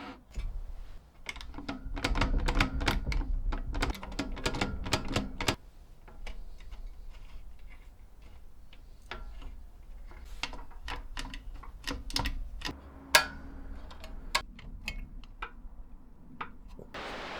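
Metal mechanism of a Felix M pinwheel calculator clicking and rattling as it is worked by hand: a dense run of clicks over a low rumble for the first five seconds or so, then sparser single clicks, one louder than the rest.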